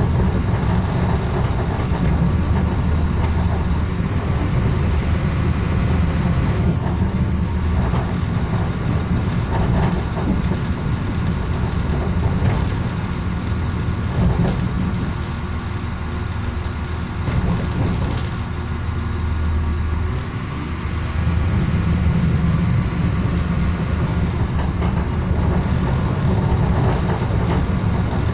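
Moving passenger train heard from inside the carriage: a steady low rumble of wheels on the track, with a few short knocks and rattles along the way.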